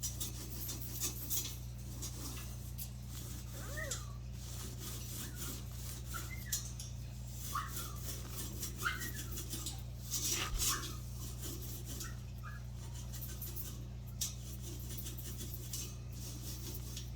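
Senegal parrot giving short, soft chirps and squeaks every second or two, with a few light clicks and clinks over a steady low hum.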